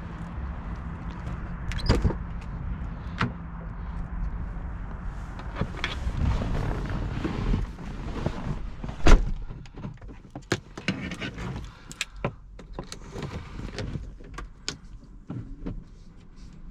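Handling noises in a parked Porsche Boxster 986 before the engine starts: a string of sharp clicks, knocks and rattles, with one loud thump about nine seconds in, over a low steady hum that fades after the first few seconds.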